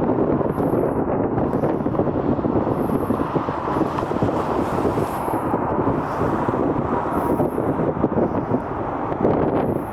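Steady roar of jet airliner engines mixed with wind on the microphone. Faint short high chirps recur throughout.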